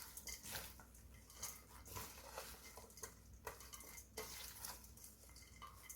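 Faint rustling and light clicks of garlic chives and sliced onion being tossed by hand with seasoning in a bowl.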